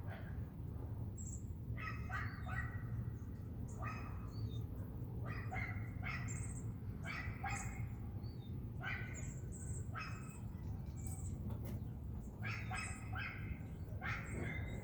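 A dog barking over and over, single and double barks coming every second or two, with a steady low rumble underneath.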